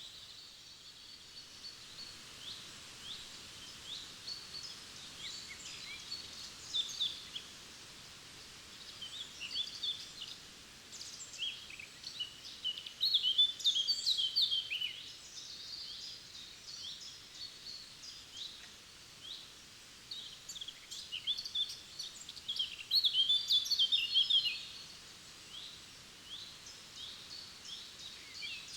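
Several songbirds singing and chirping in a forest, with short calls throughout and two louder bursts of song about halfway through and near the end, over a faint steady hiss of flowing water.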